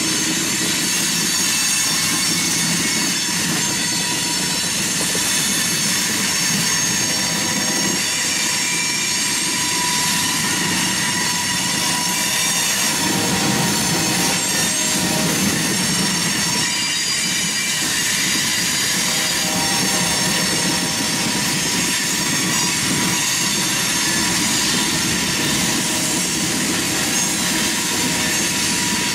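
Freight cars of a Union Pacific manifest train rolling steadily past over the rails, a continuous rumble of wheels with steady high-pitched squealing tones held throughout.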